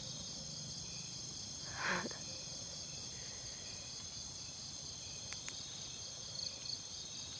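Crickets and other insects chirring in a steady, high-pitched chorus, with a short sound from a voice about two seconds in.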